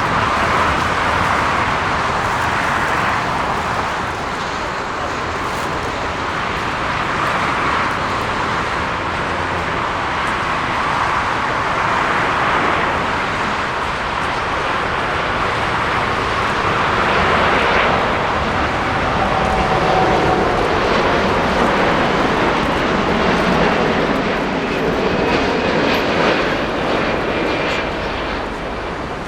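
Jet airliner's engines, a loud, steady rush of engine noise that swells and eases several times, with a faint whine about two thirds of the way through.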